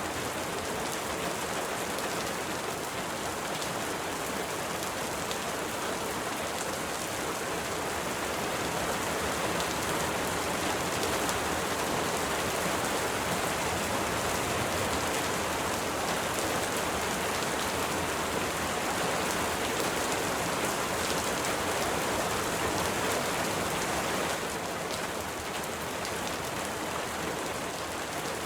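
Steady rain falling, a dense hiss of drops with fine pattering, swelling slightly in the middle and easing a little near the end.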